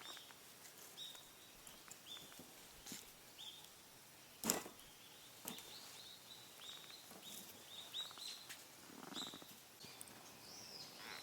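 A small bird calling over and over with short, high chirps, faint, with a single sharp click about four and a half seconds in.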